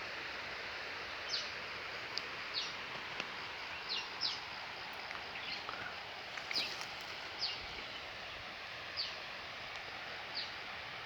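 A bird calling in the forest with short, high notes that each drop in pitch, about ten of them spaced a second or so apart, over a steady background hiss.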